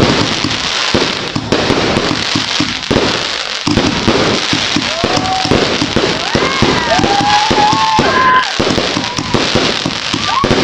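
Lucky Party fireworks cake firing a rapid, unbroken string of bangs and crackling bursts. A few short, wavering tones rise and fall over the crackle in the middle.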